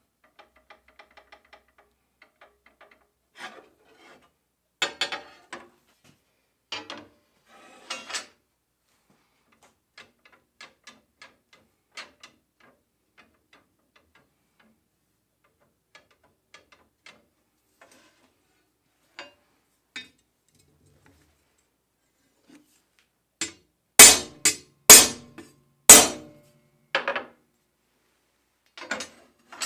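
Hand work on a steel flat bar: scattered lighter scrapes and knocks, then three loud, sharp hammer blows about a second apart near the end, followed by two lighter knocks. The steel is being hammered on a makeshift anvil to spread the undersized guide bar so that it fits the slot.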